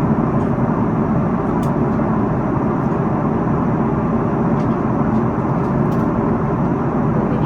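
Steady roar of cabin noise inside an Airbus A330-300 airliner: engine and airflow noise, even and unbroken.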